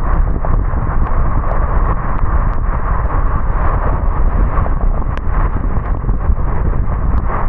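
Steady road and wind noise of a car driving on a wet road in the rain, a deep rumble under a hiss, with a few short light ticks scattered through it.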